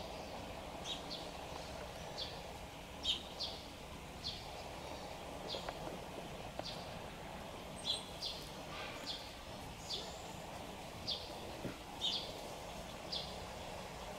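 A small bird chirping over and over, short high chirps coming about one or two a second, over steady outdoor background noise.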